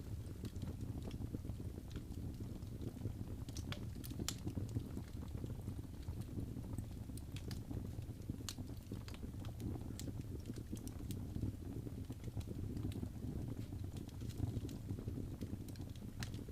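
Wood fire burning in a fireplace: a steady low rumble with scattered sharp crackles and pops, a few of them close together about four seconds in.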